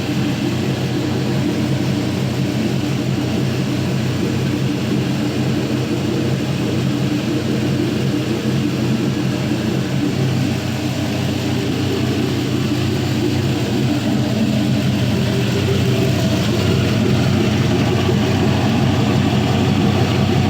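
Gen III 4.8L LS V8 (LR4) engine idling steadily on a test stand while warming up from cold.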